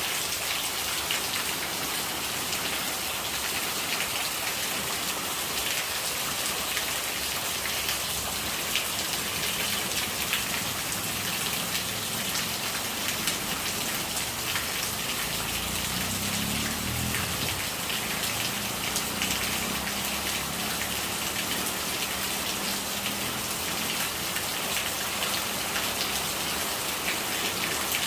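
Steady rain falling on a surface, with the small clicks of individual drops.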